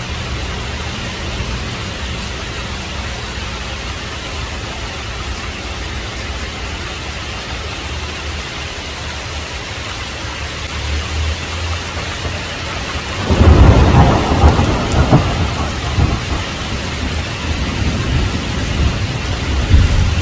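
Heavy rain falling steadily with a low rumble of distant thunder; about two-thirds of the way through, a loud thunderclap cracks and rolls on, with further rumbling peaks near the end.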